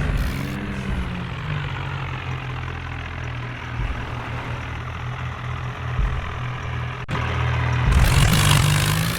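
Diesel tractor engine running steadily, with a sharp click about seven seconds in and louder running from about eight seconds in.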